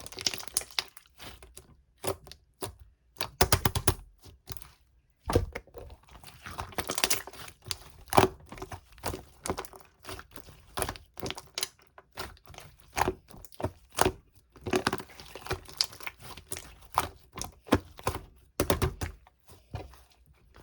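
Slime being squished and pressed by hand: a run of irregular sticky clicks and crackling pops, some coming in quick clusters.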